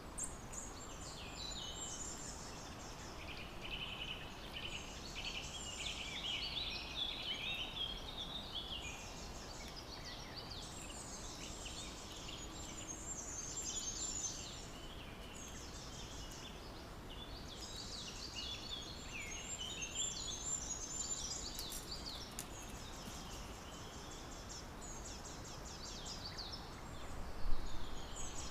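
A songbird singing repeated phrases of quick descending trills every few seconds, over a steady background hiss. A short sharp knock near the end.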